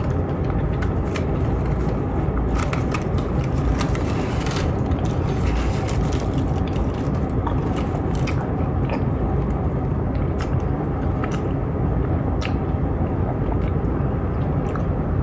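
A person chewing a mouthful of meatball marinara sub, with scattered small wet clicks, over a steady low rumble like a vehicle's running engine.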